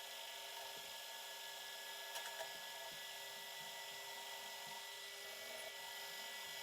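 Machine tool running steadily with a high, even whine as key stock is machined down a millimetre on each side.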